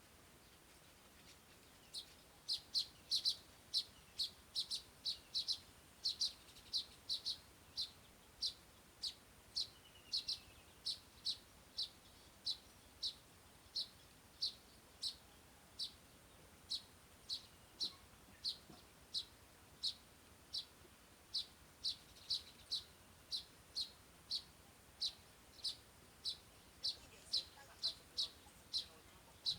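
A bird repeating a short, high chirp over and over, about two a second, starting about two seconds in.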